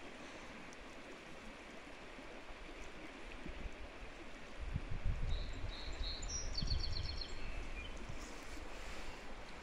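Steady outdoor background hiss, with a low rumble from about four and a half to eight seconds in. In the middle a small bird sings a few short high notes, then a quick trill that drops slightly in pitch.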